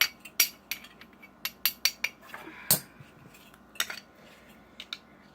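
A flathead screwdriver tip scraping, gouging and knocking against a solid aluminum computer base in an irregular series of short, sharp metallic clicks and scrapes. The dull metallic sound and the deep scratch are what mark the metal as aluminum rather than steel.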